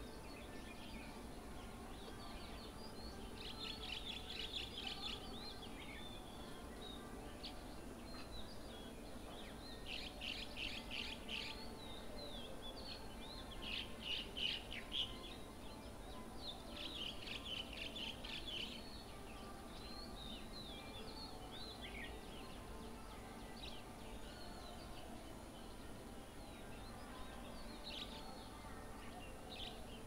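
Wild birds calling: four bursts of rapid, high chattering calls, the loudest about halfway through, with scattered single calls between them, over a faint steady hum.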